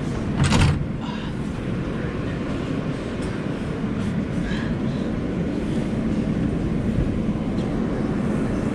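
Subway train running through a tunnel, heard from inside the car: a steady rumble of wheels on rail, with one sharp clatter about half a second in.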